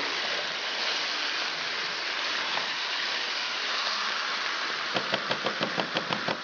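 Chicken, masala and chopped tomatoes sizzling in oil in a non-stick karahi, a steady hiss. About five seconds in, a quick run of clicks, about six a second, as a spatula stirs the food in the pan.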